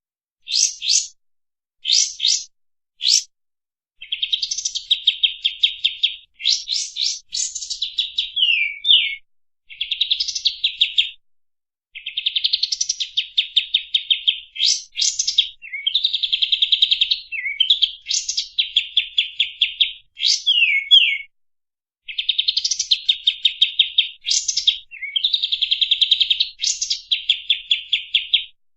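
Kapas tembak singing its fast 'shooting' song: rapid, tightly packed trills of repeated high notes in phrases of one to two seconds. Short pauses separate the phrases, and a few quick falling slurred notes are mixed in. The voice is clear, with nothing else behind it.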